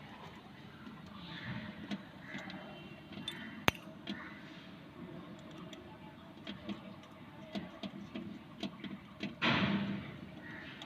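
Small clicks and knocks from hands working on wiring and terminals, with one sharp click a little under four seconds in and a brief scraping rustle near the end, over a low background hum.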